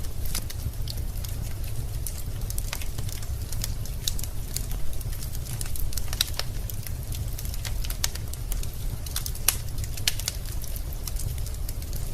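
Log fire burning in a fireplace: irregular sharp crackles and pops from the burning wood over a steady low rumble of the flames.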